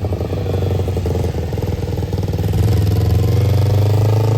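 Motorcycle engine running steadily close by, its revs rising a little over the second half, then easing off at the end.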